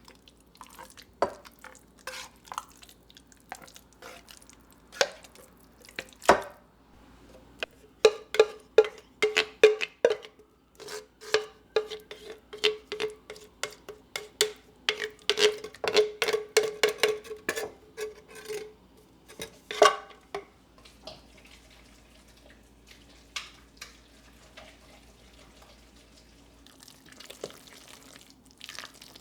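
A spoon clinking and scraping against a dish in quick repeated strokes, as in stirring. A ringing note sounds under the fastest run of strikes through the middle, and the strokes thin out and grow quieter near the end.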